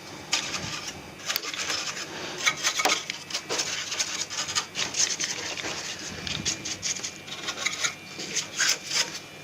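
Irregular rubbing and scraping with many light clicks and knocks, as the plastic casing and parts of an air conditioner's indoor unit are handled.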